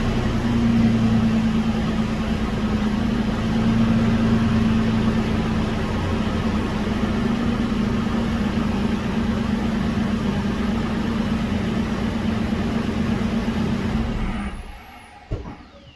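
Toyota 4Runner's 4.0-litre V6 heard from inside the cabin on the move: a steady low engine drone over road noise. Near the end it drops away sharply, followed by a single click.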